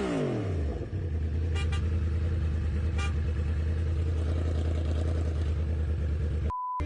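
Motor vehicle engine running with a steady low hum, with two very short chirps about a second and a half apart. Near the end the sound cuts out briefly and a short beep plays.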